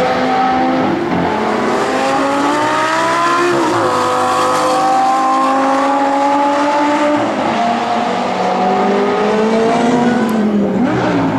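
Lamborghini Gallardo V10 engine accelerating hard on a race track. The revs climb steadily and fall back at each upshift, about 4 and 7 seconds in and again near the end, then climb again.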